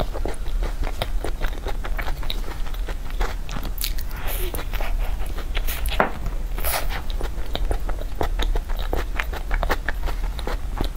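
Close-miked biting and chewing of a soft Oreo cream-cheese dessert, full of quick wet mouth clicks and smacks.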